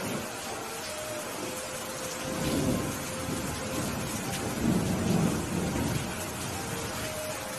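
Steady rain falling, with thunder rumbling twice, the second roll louder and lasting about a second and a half.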